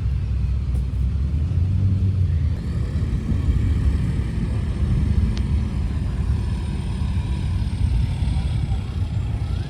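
V8 engine idling with a steady low rumble.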